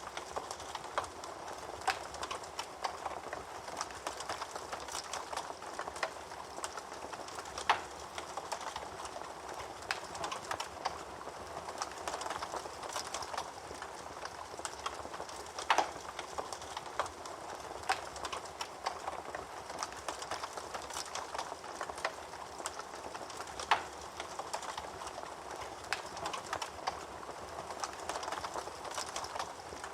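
Wood fire burning in a fireplace: a steady soft hiss with frequent irregular crackles and pops, and a few louder snaps several seconds apart.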